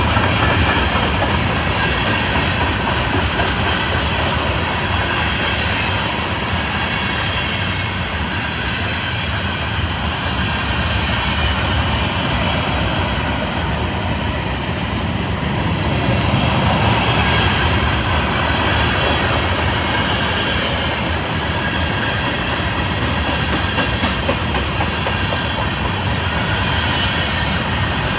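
A train passing close by: the steady, unbroken noise of its wheels running on the rails, holding at much the same level throughout.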